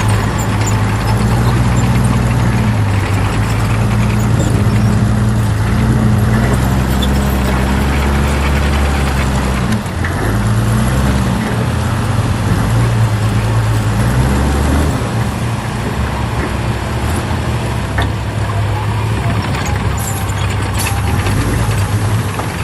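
Heavy diesel earthmoving machinery running under load, its engine note shifting up and down. The engine sound thins out about fifteen seconds in.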